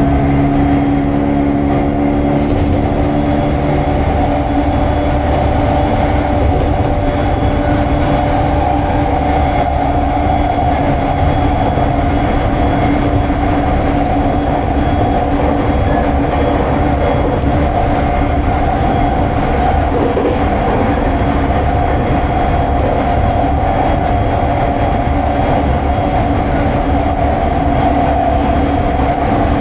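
JR 209 series 1000 subseries commuter train running on the rails, heard from inside its motor car: a continuous rumble of wheels on track with a steady whine of several pitches. A few of the lower tones drop away about four seconds in.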